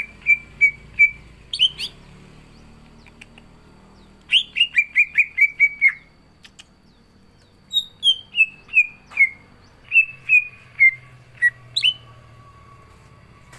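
Cucak ijo (green leafbird) singing: quick runs of sharp, downward-slurred whistled notes, three runs of about five to eight notes each with short pauses between. A faint steady whistle-like tone comes in about ten seconds in.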